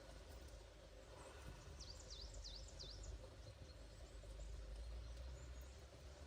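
A small bird calling: a quick run of four short, high notes, each dipping and rising again, about two seconds in, over a faint low steady rumble.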